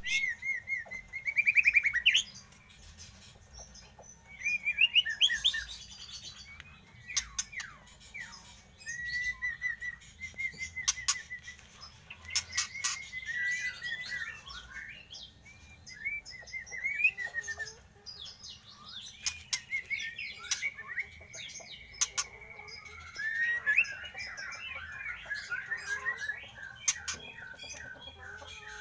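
A young murai songbird, 52 days old, singing and chirping: varied whistled phrases, rising and falling glides and quick trills, with a longer held whistle a little past the middle. Sharp clicks come now and then among the phrases.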